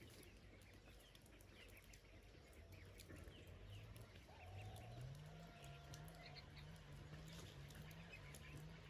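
Faint outdoor ambience with scattered distant chicken calls, and a low hum that rises in pitch about halfway through, then holds steady.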